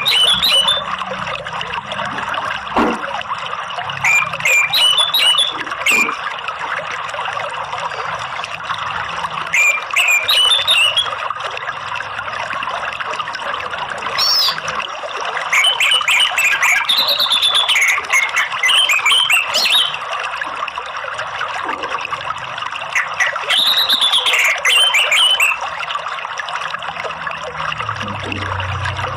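Flowing water runs steadily while an orange-headed thrush (anis merah) sings short, clear phrases of whistles and chirps every few seconds over it.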